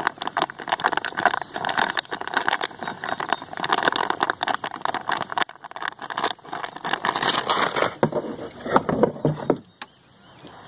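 Boat under way across the water: a loud, dense rattling and crackling noise with many sharp clicks. It drops away suddenly near the end.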